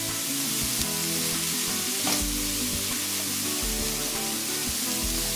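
Riced cauliflower frying in a wok of hot coconut oil, with a steady sizzle, as a spatula stirs and scrapes it around the pan. There is a brief clack of the spatula about two seconds in.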